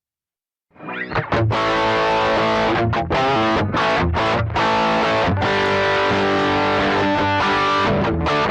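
About a second of silence, then heavily distorted electric string playing through a multi-effects pedal: dense sustained riffing, cut short a few times by brief stops.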